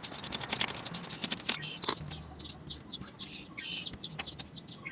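Ratchet wrench clicking rapidly for about a second and a half as a bolt is turned, then a few slower clicks, with short bird chirps in between.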